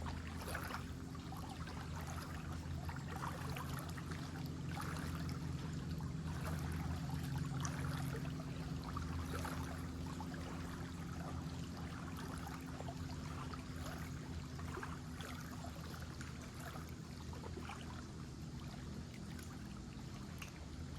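Lake water trickling and splashing in scattered little crackles, over a steady low engine hum.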